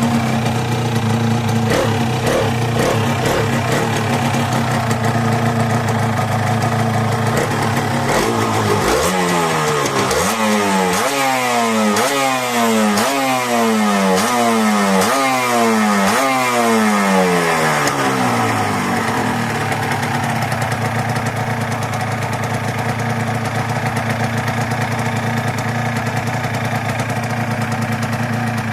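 Yamaha TZR125's single-cylinder two-stroke engine idling, then revved in a run of about eight quick blips, each rising in pitch and dropping back, before it settles to idle again.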